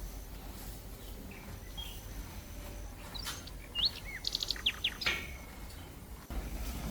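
A small bird sings a short phrase of quick chirps and whistles, with a fast trill in the middle, about three seconds in, over a steady low background rumble.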